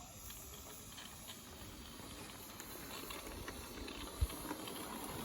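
Small live-steam model locomotive hissing and sputtering as it moves off slowly, with a faint spatter of small ticks, growing louder toward the end. A soft low bump about four seconds in.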